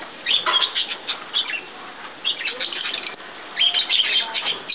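A crowd of birds chirping and calling at once: a dense, busy stream of short high chirps, heaviest near the start and again near the end.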